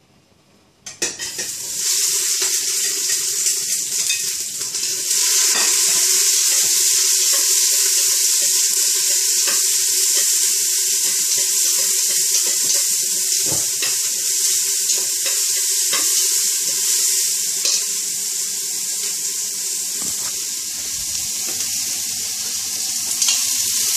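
Julienned ginger and spring onion sizzling in hot oil in a stainless steel pot, being sautéed. The sizzle starts suddenly about a second in as they go into the oil, then runs on steadily.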